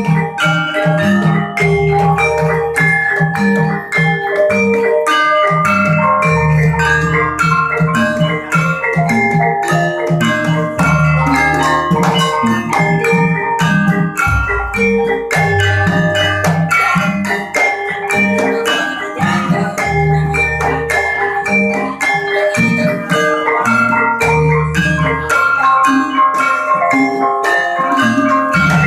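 Javanese gamelan music: metallophones strike a dense, steady run of ringing notes over sustained low tones and drum.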